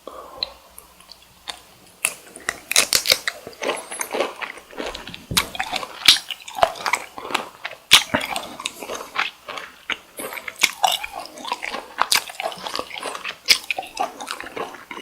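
Close-miked chewing of cooked cocktail shrimp: wet, irregular bites and mouth smacks, quieter at first and steady from about two seconds in.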